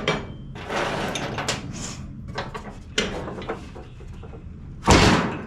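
Workshop handling noise: metal parts and tools scraping and clunking on a workbench, with a few clicks and one louder clunk near the end.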